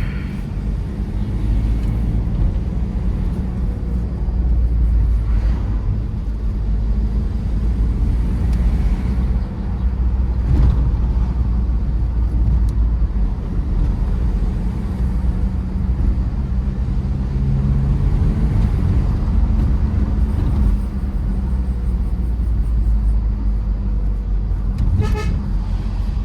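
Tata Safari Storme's diesel engine and road noise, a steady low rumble as the SUV drives. A vehicle horn sounds briefly near the end.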